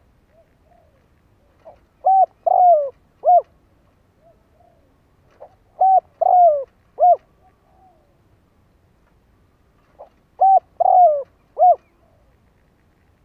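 Spotted dove cooing: three phrases about four and a half seconds apart, each a faint short lead note followed by three loud coos, the middle one the longest, with soft quiet notes between phrases. It is a decoy dove's call, used to draw wild doves in.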